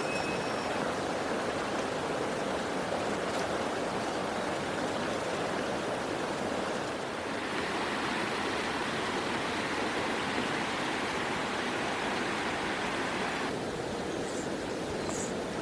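Mountain stream rushing steadily. Near the end comes a run of short, high chirps.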